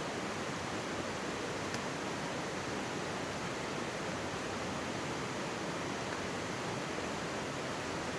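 Mountain stream rushing and babbling steadily, with one faint crackle from a wood campfire a little under two seconds in.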